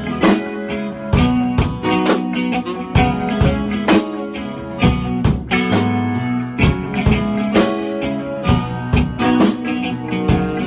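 A rock band playing the instrumental opening of a song, guitar over a drum kit keeping a steady beat.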